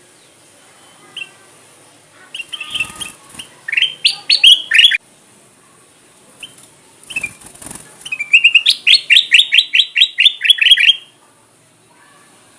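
Kutilang emas, a bulbul, singing in two loud bouts: a chattering phrase of rising notes about two seconds in, then a fast, even run of about a dozen clear notes at roughly five a second near eight seconds in.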